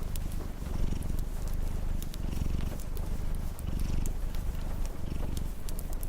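A cat purring steadily and low, the purr swelling and easing with each breath every second or two. Sharp pops and crackles of a wood fire are scattered throughout.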